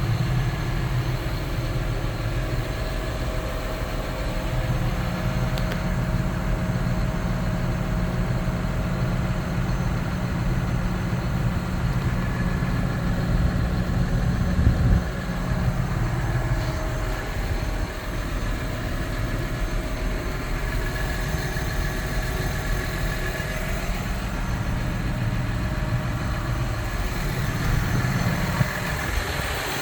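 John Deere 6155R tractor's six-cylinder diesel engine running steadily at idle, with a brief louder surge about halfway through.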